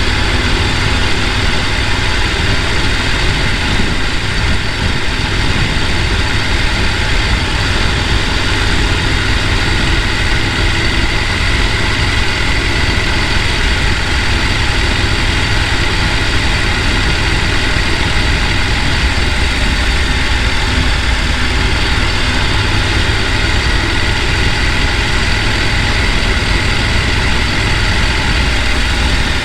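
Mountain stream rushing over rocks: a loud, steady roar of water.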